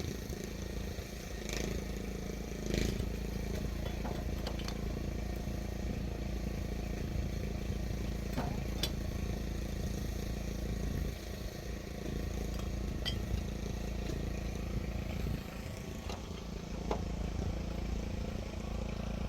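An engine running steadily with a low hum, with a few scattered clicks and knocks over it.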